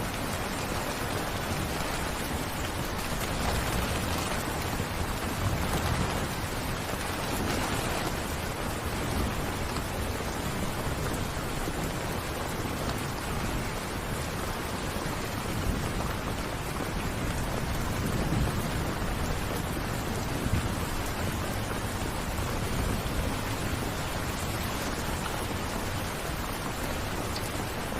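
Steady rain falling, an even hiss with a few low rumbling swells now and then.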